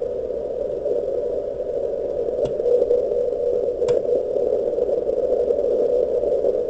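160-metre receiver audio: band noise heard through a narrow CW filter, a steady hiss pitched around 500 Hz, with a weak Morse signal faintly in it. Two sharp clicks come about two and a half and four seconds in.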